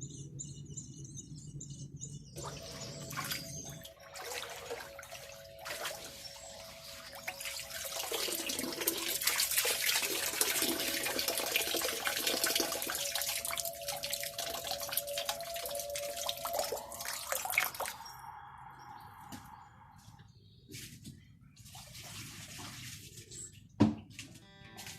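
Running water, steady and splashing, starts a couple of seconds in and stops about three quarters of the way through. After it come a few quieter handling sounds and one sharp knock near the end.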